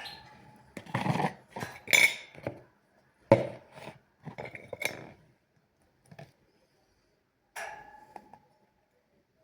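Tableware being handled: dishes and cutlery knocking, scraping and clinking, with a few short ringing clinks. Each sound is brief and separate from the next.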